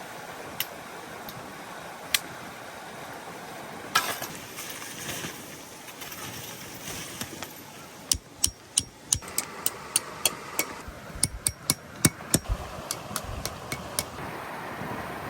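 Sharp knocks and taps over a steady hiss: a few single knocks in the first half, then a quick, irregular run of them, about three a second, in the second half.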